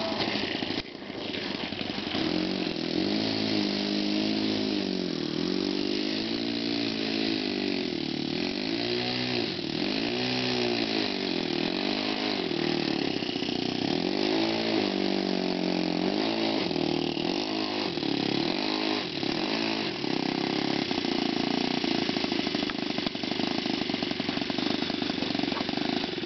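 Small two-stroke glow engine of a radio-controlled SpaceWalker 46 model airplane running at high revs in flight, its pitch rising and falling again and again as the plane passes back and forth.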